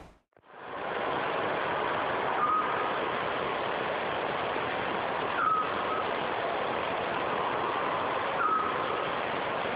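Eurasian scops owl calling: a short whistled note three times, about three seconds apart, over a steady background hiss.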